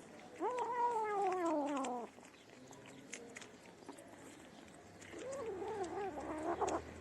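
A cat meowing twice: one long call about half a second in that falls steadily in pitch, then a wavering, up-and-down call near the end.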